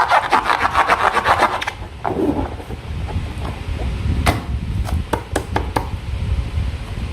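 Slime being squeezed and worked by hand: a quick run of sticky crackling and popping for about the first second and a half, then a few separate wet clicks over a low rumble.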